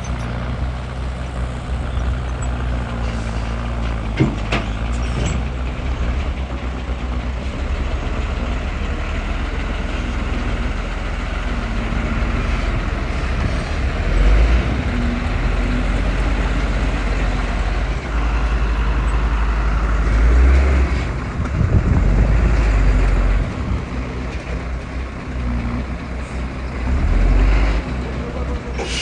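Heavy diesel engine of earthmoving machinery running steadily and swelling louder several times as it takes load, with a sharp knock about four seconds in.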